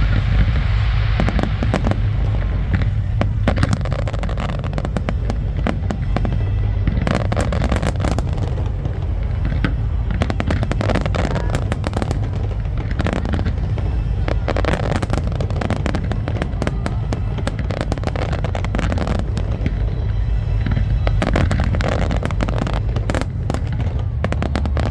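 Fireworks display bursting almost without a break: many sharp bangs and crackles come in quick succession over a steady low rumble.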